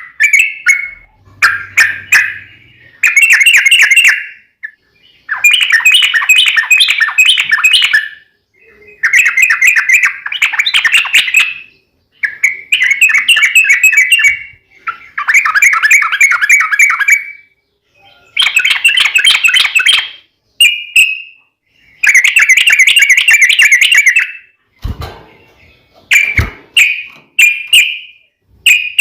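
Yellow-vented bulbul (trucukan) singing in loud, bubbling chattering phrases of one to three seconds with short pauses between them. This is the long rolling fighting song used to provoke other bulbuls into answering. Two low knocks come near the end.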